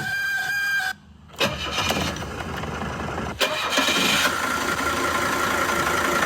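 A Mercedes-Benz 300TD's five-cylinder diesel engine being started: a brief whine in the first second, a short pause, then the engine catches about a second and a half in and keeps running, with a louder surge near the middle.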